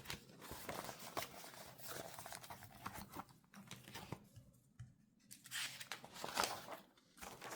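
Paper money and challenge pages rustling and crinkling in the hands, with small clicks and taps, as cash is counted out and filed into a savings challenge.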